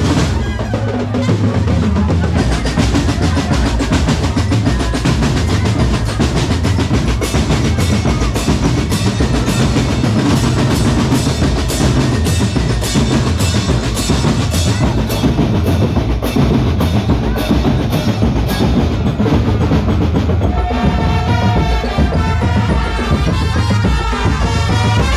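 A marching drum corps playing a dense, steady drum beat with rolls. About twenty seconds in, a melodic line joins over the drums.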